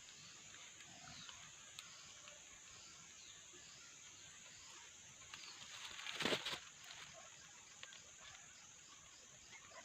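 Steady high-pitched insect drone with faint short chirps over it, and a brief rustle about six seconds in.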